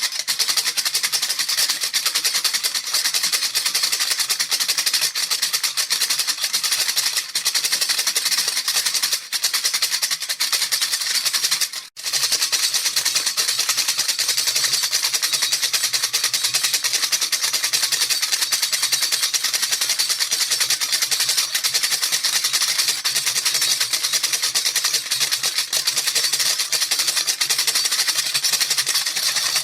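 A baby rattle shaken quickly and without pause, a bright, hissy rattle that cuts out for an instant about twelve seconds in.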